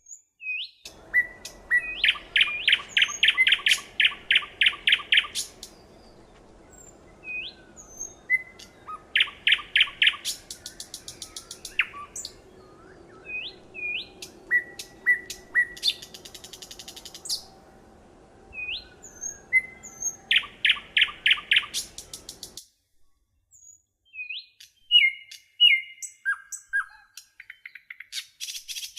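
Small songbirds chirping, with short upward-flicked notes and several fast rattling trills a second or two long. A faint low hum lies underneath and drops out abruptly about three-quarters of the way through, where the recording cuts, and the chirping carries on.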